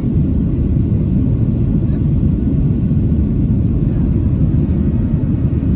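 Steady low cabin noise inside a Boeing 737-700 airliner: a constant rumble of engine and air noise with no change.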